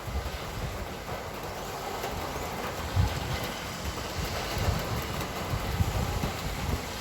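Road traffic: a steady hiss with irregular low rumbles, the loudest about three seconds in.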